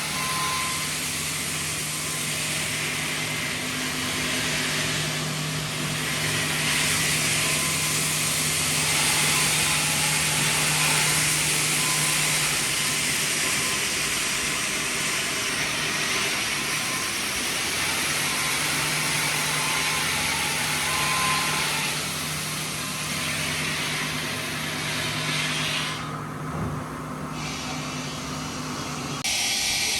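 Machinery running steadily: a constant low hum under a loud, even hiss. The sound changes abruptly twice near the end.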